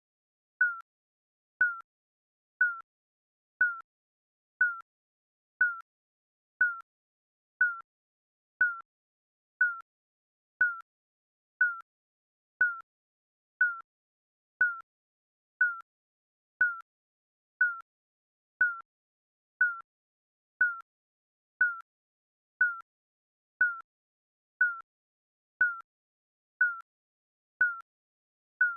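Countdown timer sound effect: a short, slightly falling electronic beep, one each second, marking off the seconds.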